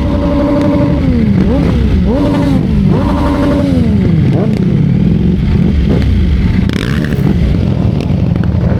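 Ducati Streetfighter V4 S motorcycle engine under way, its pitch rising and falling several times in the first half as the throttle is opened and closed and gears change, then running more evenly. A heavy low rush of wind and road noise runs underneath.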